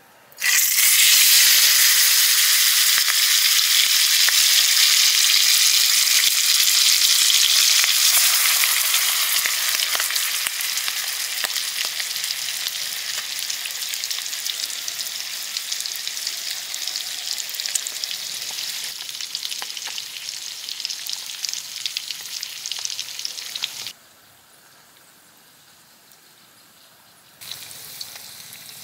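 Spice-rubbed slab of bacon hitting hot oil in a small steel pot: a loud sizzle starts suddenly, then settles into a steady frying hiss that slowly dies down. The sizzle breaks off for about three seconds near the end, then comes back more quietly.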